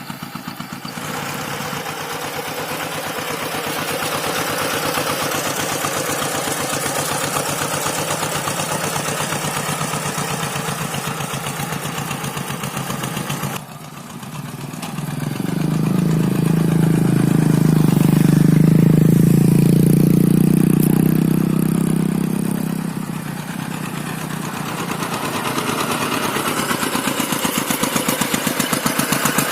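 Rice-field tractor engine running steadily under ploughing load. About halfway through the level drops sharply for a moment, then the engine comes back louder and deeper for several seconds before easing back to its earlier level.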